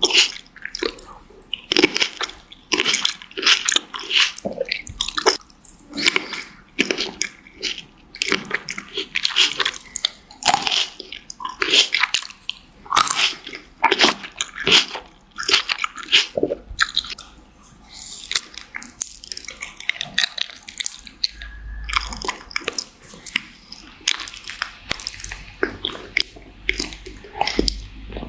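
Close-miked biting and chewing of fresh fruit: many wet crunches in quick succession, thinning out after about sixteen seconds.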